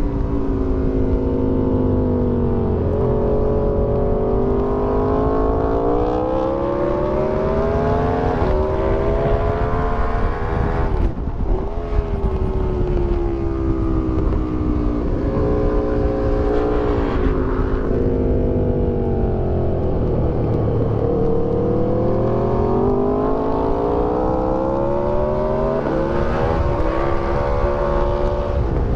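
2008 Aprilia Tuono 1000R's V-twin engine through an Akrapovic exhaust, ridden hard on track: revs climb and fall with the throttle, with short breaks at gear changes and roll-offs.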